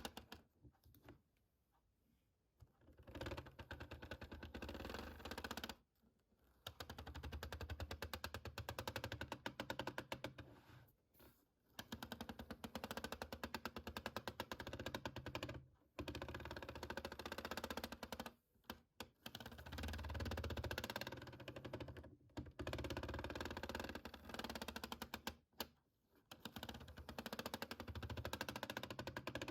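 Rapid finger tapping on a hard object, in runs of a few seconds broken by short pauses.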